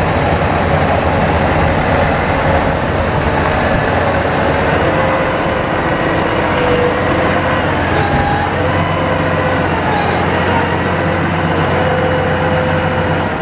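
Bucket truck's diesel engine running steadily with the PTO engaged, a low drone carrying a whine that shifts pitch now and then as the hydraulic boom is worked.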